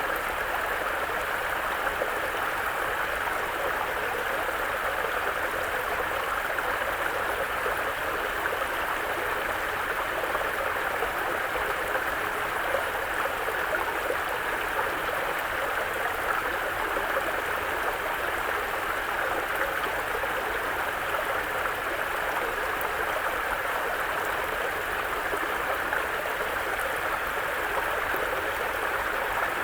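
Mountain brook flowing over rocks: steady babbling and gurgling water.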